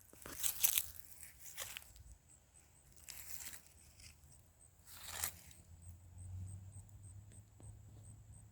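Four or five separate crunching rustles, like steps or movement on dry ground. From about two seconds in, an insect chirps high and evenly, about twice a second.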